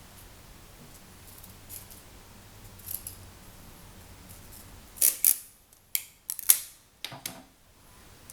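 A quick run of sharp clicks, about seven in the second half, over a faint background.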